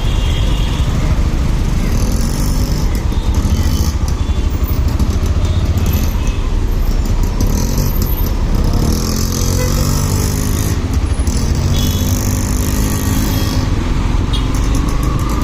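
Motorcycle riding through city traffic: a steady low wind rumble on the microphone over engine and road noise, with the engine note rising in pitch about nine seconds in.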